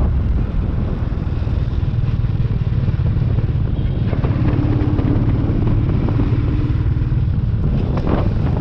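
Royal Enfield 350 single-cylinder motorcycle engine running steadily on the road, a continuous low drone of even pulses.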